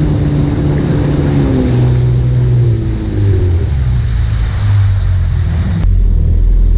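Yamaha FX WaveRunner's four-stroke engine running on the water, its pitch dropping as it slows, with water spray and wind on the microphone. Near the end the sound cuts abruptly to a steadier, lower engine drone.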